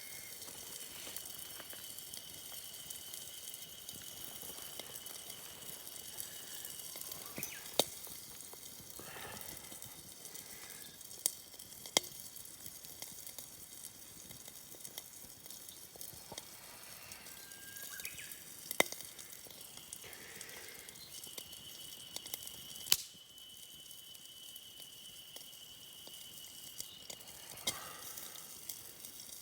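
Campfire crackling and sizzling with a low steady hiss, broken by a handful of sharp single pops several seconds apart.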